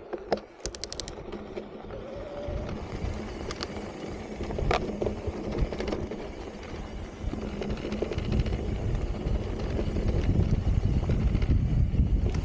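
Santa Cruz Heckler e-mountain bike setting off along dirt singletrack: tyres rolling over loose dirt and rocks with wind rumbling on the microphone, getting louder as speed builds. A quick run of about six clicks sounds just under a second in.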